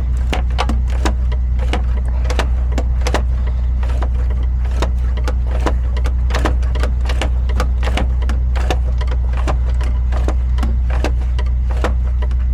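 Ratchet wrench clicking in quick irregular strokes while the 3.0L V6 diesel (OM642) is turned over by hand at the crankshaft. The van's engine is rotated by hand to check it is not seized. A steady low hum runs underneath.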